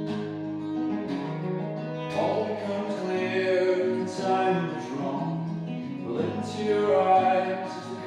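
Acoustic guitar playing a song, plucked and strummed notes ringing on over one another.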